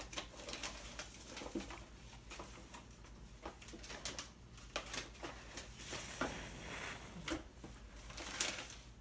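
Close rustling and irregular small clicks from hands and a pencil working a radio-tag harness onto a hand-held sparrow, with a longer rustle about six seconds in and a sharper one near the end.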